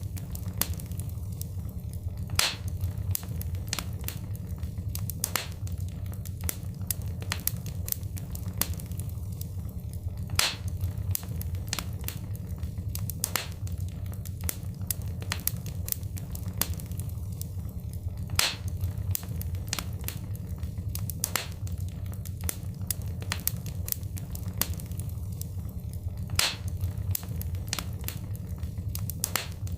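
Wood fire crackling in a fireplace: frequent sharp pops and snaps, a few louder ones every several seconds, over a steady low rumble of the flames.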